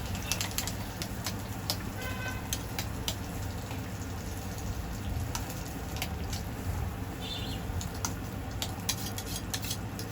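Street-stall ambience: a steady low rumble with frequent sharp clicks and taps, and two short chirps, about two seconds and about seven seconds in.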